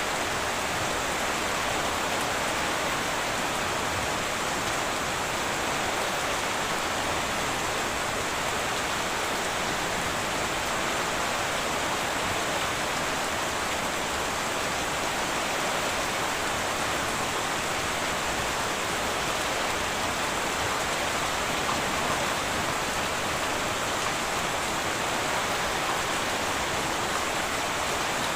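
Heavy rain drumming on a tin roof, a steady, even hiss that does not rise or fall.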